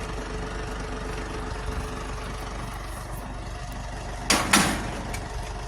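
Truck engine idling steadily, with two short loud knocks about four seconds in.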